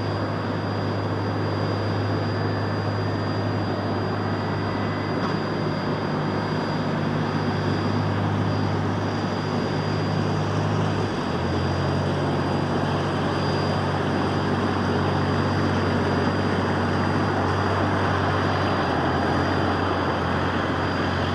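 Jet aircraft engines running steadily, with a thin high whine over a low hum whose pitch shifts down slightly about halfway through.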